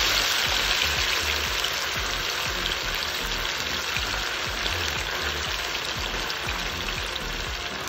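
Chicken pieces deep-frying in hot oil, a steady sizzle flecked with crackles as more pieces are lowered in with a skimmer, over faint background music.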